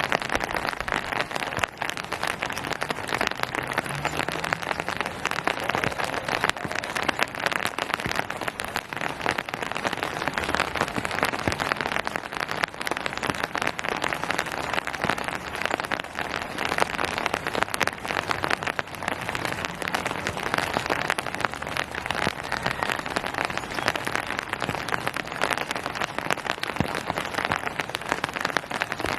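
Steady rain falling on a surface, a dense, even patter of countless individual drops with no let-up.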